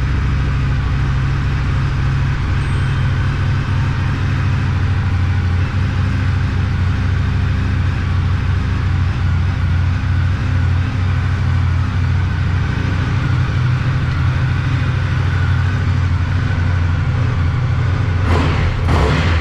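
Indian FTR 1200 S motorcycle's liquid-cooled V-twin, breathing through an aftermarket Akrapovic exhaust, idling steadily. A brief louder rush of noise comes near the end.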